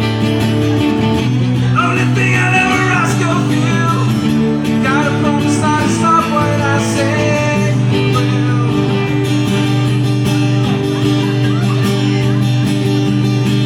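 Rock music with guitar over steady sustained low notes, with a wavering melodic line in the first half.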